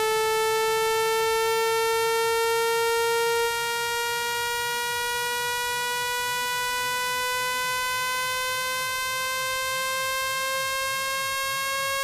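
Electronic speaker water-ejection tone: a buzzy synthetic tone with many overtones, slowly and steadily rising in pitch, meant to vibrate a phone speaker's diaphragm and push water out of its grille. It drops slightly in loudness about three and a half seconds in.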